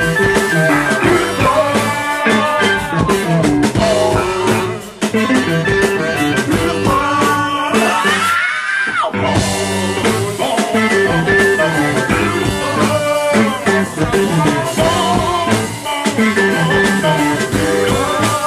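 Live band playing a rock song. About eight seconds in, the bottom drops out briefly while one note slides upward, then the full band comes back.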